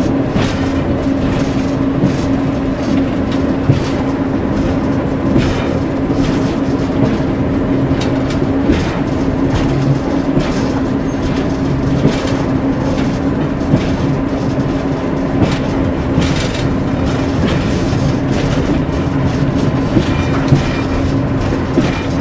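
Class 141 Pacer diesel railbus running along the line, heard inside the driving cab: a steady engine and transmission drone over wheel and rail rumble, with a sharp knock now and then.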